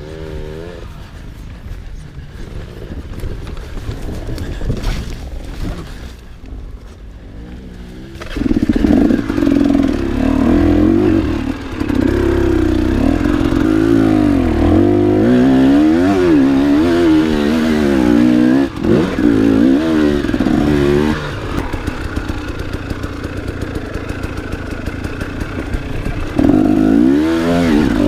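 Enduro motorcycle engine under way, running fairly low for about the first eight seconds, then loud with the revs rising and falling over and over as the throttle is worked. It eases back for a few seconds near the end, then picks up again.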